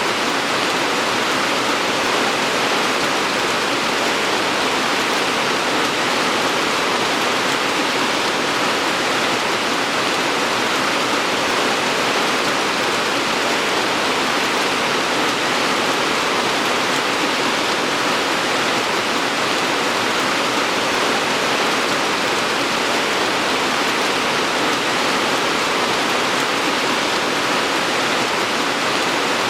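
Steady rain falling, an even hiss that holds at one level without single drops or breaks standing out.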